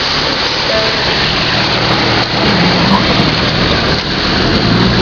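Car driving through a flooded street: a steady, loud rush of water noise with a low engine hum underneath.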